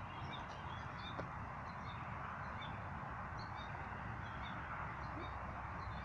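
Birds chirping, with many short, faint calls scattered throughout over a steady outdoor background hiss.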